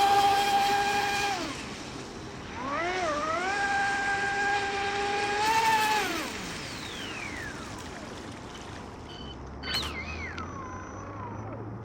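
ADS500M water-cooled electric motor of an HK Pursuit RC boat whining at steady throttle, easing off about a second and a half in, coming back up near three seconds and holding, then winding down with a falling pitch about six seconds in.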